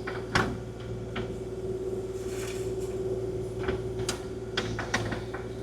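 Kubota KX040-4 mini excavator's diesel engine running at a steady hum, with a handful of light clicks and knocks scattered through it as the machine works.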